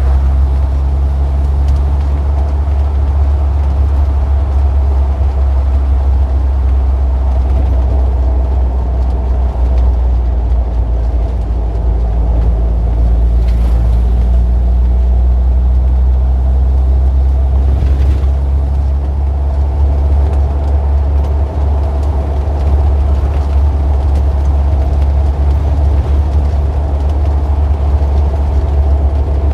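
Road traffic: a steady, deep engine rumble of motor vehicles with a constant low hum, and a couple of faint ticks about halfway through.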